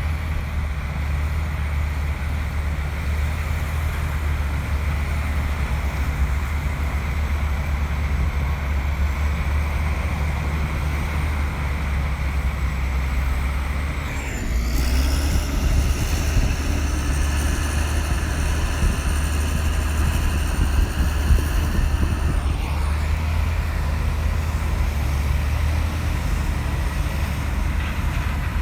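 Komatsu bulldozer's diesel engine running with a steady heavy drone. About halfway through it gets louder for roughly eight seconds, with a high whine over the engine that rises in and then drops away.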